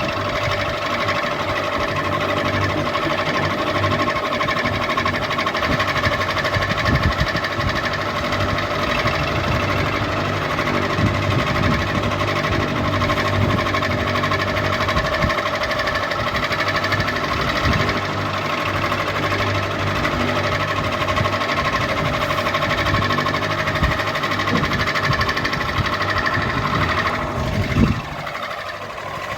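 Ceiling fan running steadily: a motor hum with several steady tones over a rattling, knocking beat. Near the end a falling whine sweeps down and the level dips.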